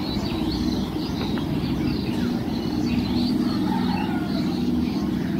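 An electric multiple-unit local train comes in toward the station, giving a steady low hum and rumble from its motors and wheels. Birds chirp high above it throughout.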